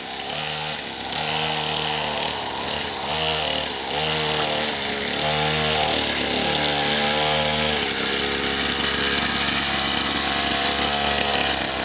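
Pit bike's small engine running, its revs rising and falling in short pulses of throttle, then holding steadier for the last few seconds.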